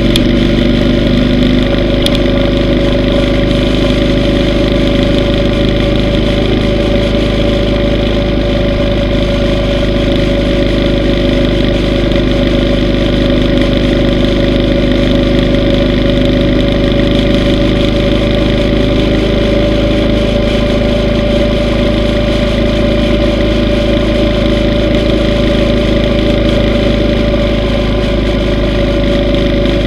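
Yamaha V Star 950's air-cooled V-twin engine running at a steady, nearly unchanging engine speed, loud and even throughout.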